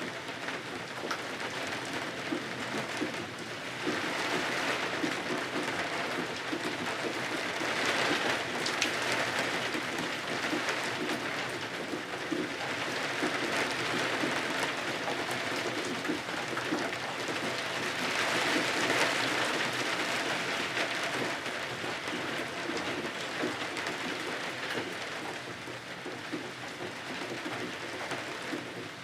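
Steady rain falling on the windows, a continuous hiss that swells and eases a couple of times.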